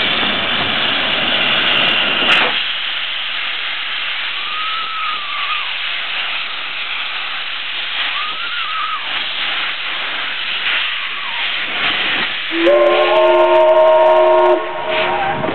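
Steam locomotive 477.043 letting off steam with a loud hiss that cuts off sharply about two seconds in, leaving a softer hiss. Near the end its steam whistle sounds one chord-like blast of about two seconds, the loudest sound here.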